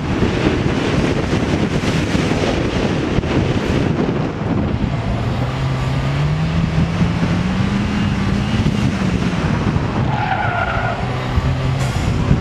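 An H Street autocross car's engine under hard driving: its pitch dips about four seconds in, then climbs steadily for several seconds before dropping off near the end, over a constant rush of tyre and road noise.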